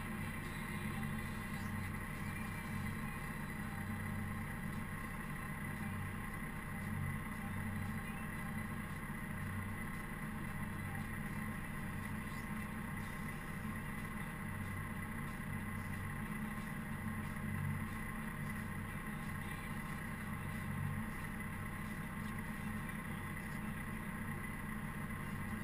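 Caterpillar TH330B telehandler's diesel engine running steadily while snowplowing: a continuous low hum with a steady high whine over it.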